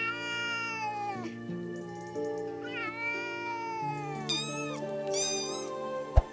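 Domestic cat meowing: two long, drawn-out meows that fall in pitch, then two short, higher-pitched meows, over background music with sustained notes.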